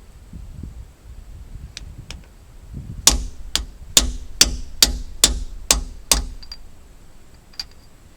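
A hammer striking metal: eight sharp blows in quick succession, about two to three a second, each with a short ring, with a few lighter taps before and after.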